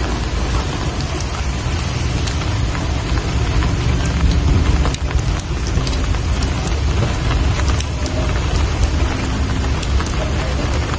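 Rain falling steadily, with many separate drops ticking sharply through the even hiss, over a steady low rumble.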